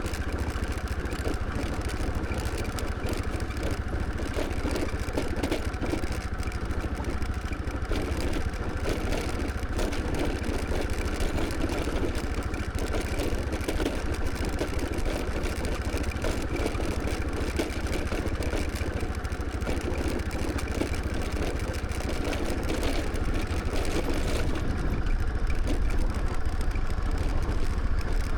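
Scooter engine running steadily during a ride, with road noise; the low rumble grows a little louder near the end.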